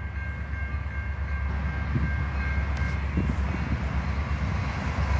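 Approaching freight train led by CN diesel locomotives: a steady low rumble that slowly grows louder. Faint steady high tones sound over it and fade about three and a half seconds in.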